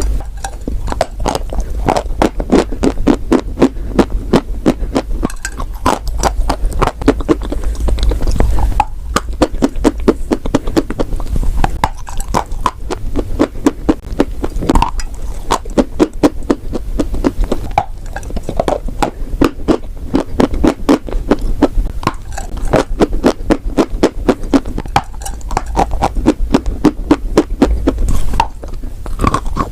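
Close-miked chewing of chalk and clay: a continuous, fast run of crisp crunches over a steady low hum.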